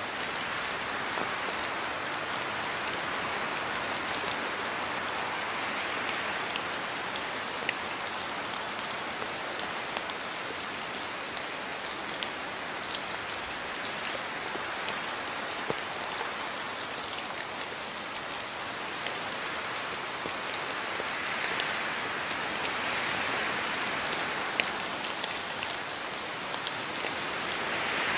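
Steady rain falling in a yard, with many individual drops ticking sharply against the continuous hiss; the hiss swells and eases slowly.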